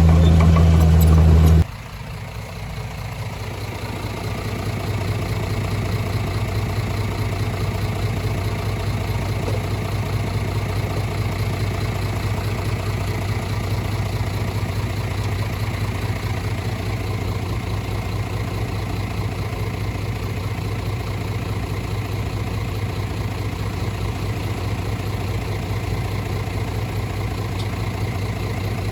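Heavy construction machinery's diesel engine running steadily. It opens with a louder engine note that cuts off abruptly just under two seconds in, then a quieter steady engine sound builds over the next few seconds and holds.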